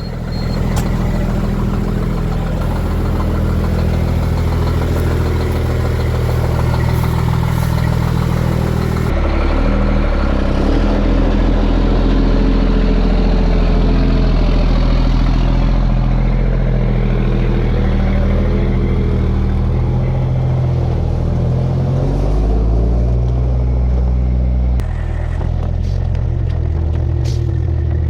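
M11 Cummins diesel engine of a 2001 International 8100 dump truck running just after a cold start, its first in almost a month. It runs steadily, with a change in its note about nine seconds in and again near the end.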